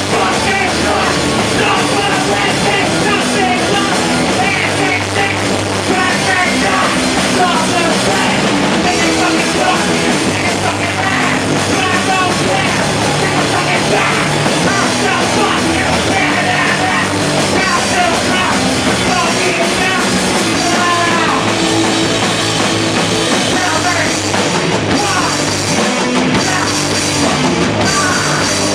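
Live rock band playing loud, with drums, distorted guitars and singing.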